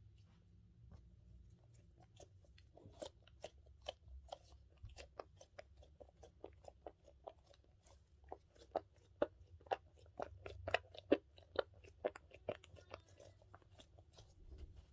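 Dumpling-shaped squishy toy squeezed and kneaded close to the microphone, giving a fast run of sticky, crackling clicks that grows denser and louder about eight seconds in.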